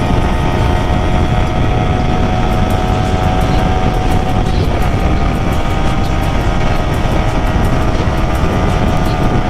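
Motorcycle cruising at highway speed: a steady engine drone at constant pitch under heavy wind rush on the rider's microphone.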